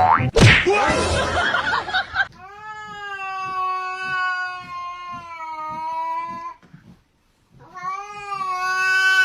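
A loud burst of noise for about two seconds, then a cat yowling in two long, drawn-out calls with a short pause between them.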